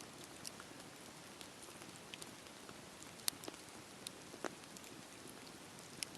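Wood fire burning with a low steady hiss and scattered sharp crackles and pops, the loudest a little past three seconds in.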